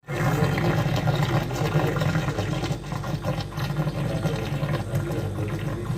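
Refrigerator running with a steady low hum and a continuous rushing sound like water starting to fall, coming from inside the cabinet body rather than from the compressor. This is the fault noise that sets in when the fridge door is closed.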